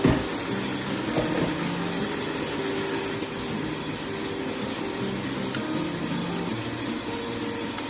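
Steady machine whir with low held tones coming and going over it, and a thump right at the start and a smaller knock about a second in.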